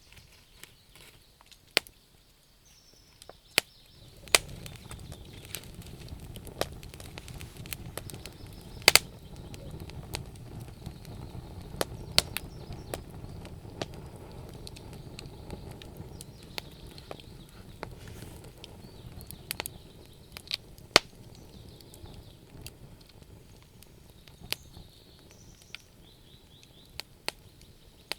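Wood fire crackling, with sharp pops and snaps of burning wood, the loudest about nine and twenty-one seconds in. A low steady rush comes in about four seconds in and fades after about twenty seconds.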